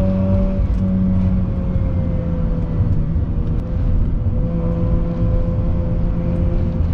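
Car engine running at fairly steady revs under way, over heavy low road rumble; its pitch eases down a little in the first few seconds, then holds.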